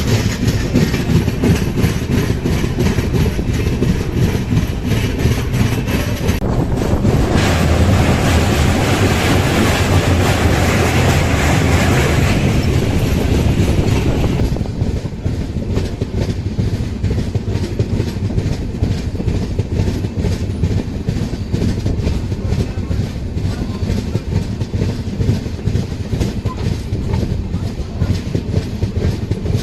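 Tamralipta Express passenger train running at speed, its wheels clattering rhythmically over the rail joints. A louder rushing noise swells in the middle for about seven seconds, then drops back to the steady clatter.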